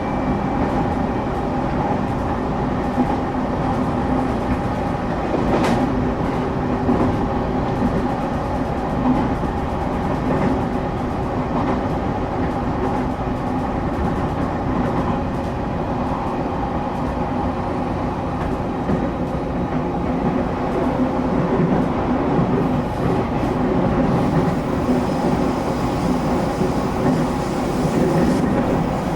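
Steady running noise inside a Shin'etsu Line local train's passenger car moving between stations: wheels rumbling on the rails with a steady hum, and a single sharp click about six seconds in.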